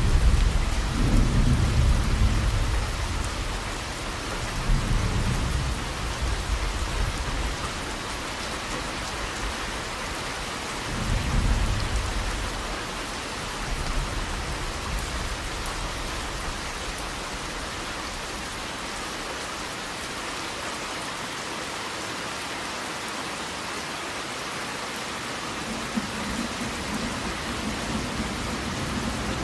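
Steady rain with low rolling thunder: a strong rumble right at the start, further rumbles about five and eleven seconds in, and a softer one near the end.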